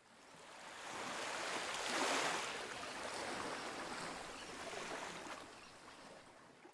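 Rushing sea water, a steady wash with no distinct beats, swelling to its loudest about two seconds in and fading away near the end.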